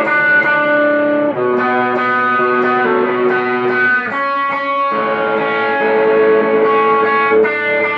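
Instrumental guitar passage: ringing, sustained chords that change every second or two.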